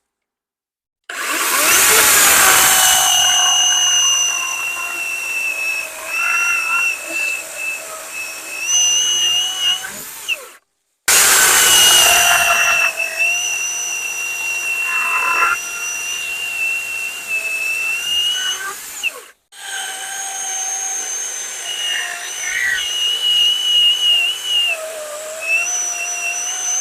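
Worx WG385E cordless electric chainsaw cutting through hard acacia logs: a steady electric motor whine with a rasping chain. Its pitch wavers and sags a little as the chain bites. The sound comes in three long runs broken twice by abrupt, brief breaks.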